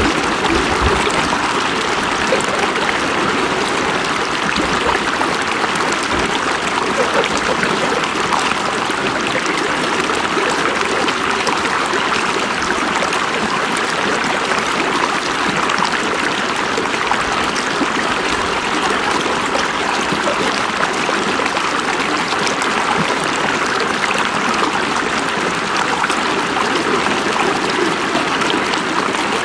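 River water flowing and splashing steadily over rocks, an unbroken rushing wash.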